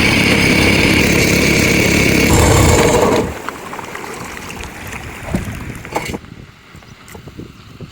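A small engine running steadily, cut off suddenly about three seconds in, leaving faint scattered knocks and clicks.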